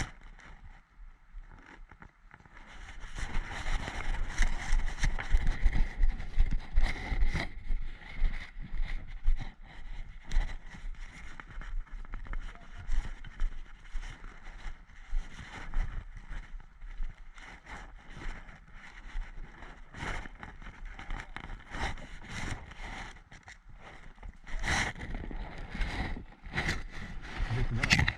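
Movement and handling noise on a body-worn action camera: rustling and scraping with irregular clicks and knocks, loudest from about three seconds in to about eight seconds.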